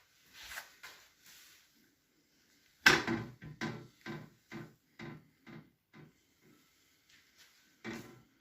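A small stove door bangs shut about three seconds in, then knocks against its frame about twice a second, fading away. A second bang comes near the end.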